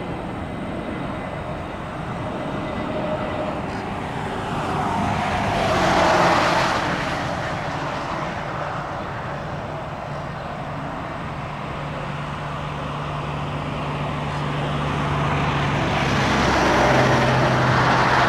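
Road vehicles passing close by: a rushing tyre-and-engine noise that swells and fades twice, the second time over a steady low hum.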